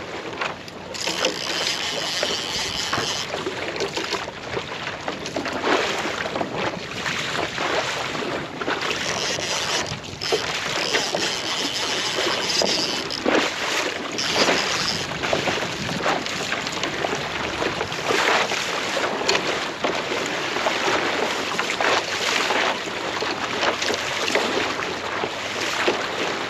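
Water splashing and sloshing against a kayak on open sea, with wind buffeting the microphone.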